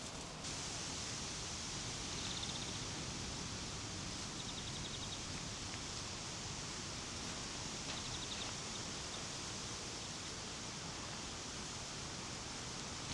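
Outdoor ambience: a steady, even hiss with three short, rapid high trills.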